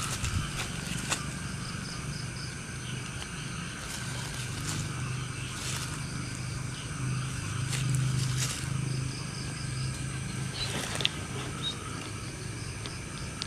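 Night outdoor ambience: a steady high trilling of insects with faint repeating chirps, over a low hum that swells about halfway through. A few soft clicks, like footsteps or twigs, come near the start and about two-thirds of the way in.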